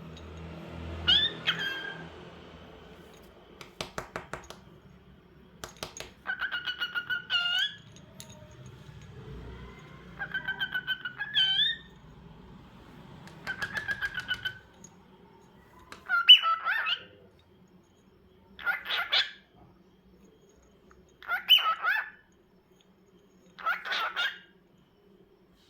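Cockatiel calling: short repeated chirping calls, each sweeping upward at its end, with a couple of brief trains of rapid clicks early on. In the second half the calls come evenly, about every two and a half seconds.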